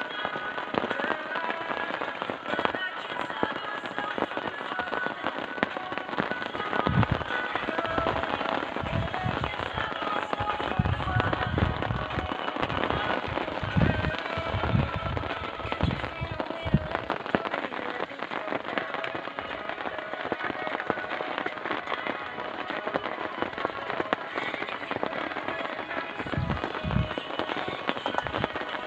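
Heavy rain pattering densely on a surface, a continuous crackle of drops, with irregular low thumps that come in clusters through the middle and again near the end.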